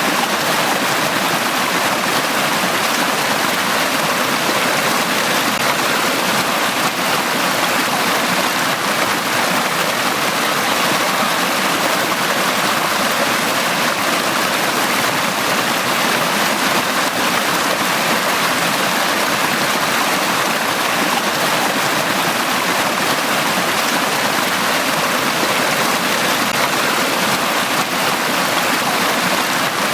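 A forest stream of running water flowing over rocks, a steady, even rushing and babbling.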